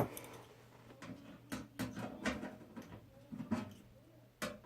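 Scattered light clicks, taps and scrapes of a motherboard and PC case parts being handled and test-fitted, over a faint steady hum.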